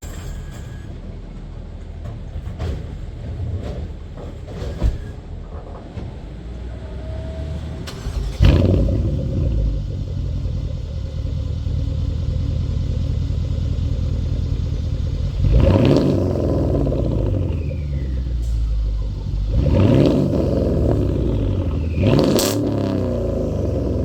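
Mercedes-Benz ML550's M278 twin-turbo V8 running with its muffler and resonator deleted: a low rumbling idle that gets suddenly louder about a third of the way in, then three quick revs, each rising and falling back to idle.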